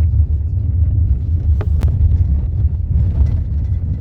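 Steady low rumble of a car driving, heard from inside the cabin, with two faint clicks close together a little before the middle.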